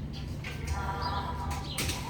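Pet bird chirping in short calls over a steady low hum, with a sharp click near the end.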